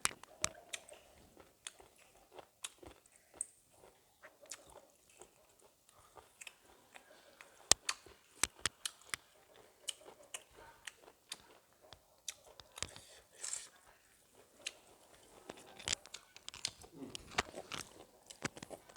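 A person chewing crunchy food close to the microphone, with irregular crisp crunches and smacks.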